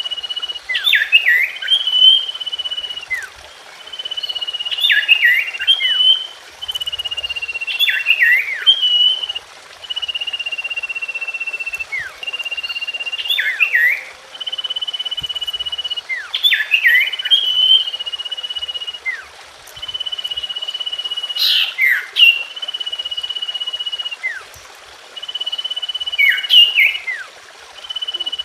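Common iora (cipoh) song: a long, level whistle followed by a quick cluster of sharp falling chirps, repeated every three to four seconds.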